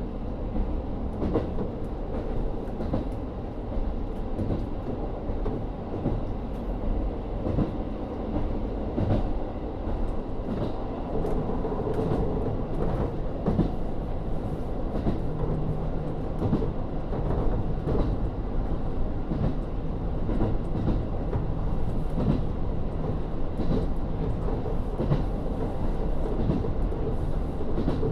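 Inside a KIHA 40 series diesel railcar running along the line: the steady rumble of its N-DMF13HZB diesel engine and the wheels on the track, with frequent short clicks as the wheels pass over rail joints.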